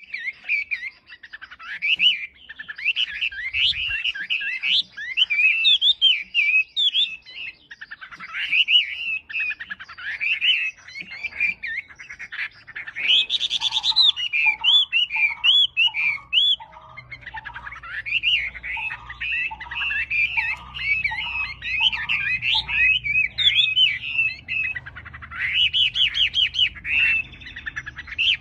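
A wambi songbird singing continuously: a fast, chattering stream of high chirps and trills, with a run of lower, evenly repeated notes about halfway through.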